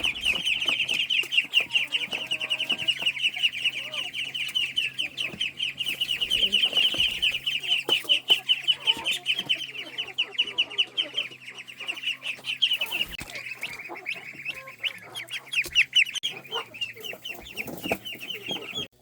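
A crowd of baby poultry peeping without pause, many high peeps overlapping in a rapid stream, over a faint low steady hum.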